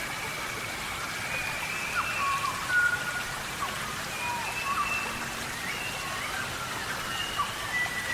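Steady rain falling in a tropical rainforest, with many short, high whistled calls, some sliding in pitch, scattered over the rain.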